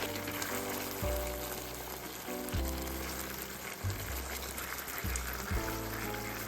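Food sizzling in a hot frying pan, a steady crackling hiss, over soft background music.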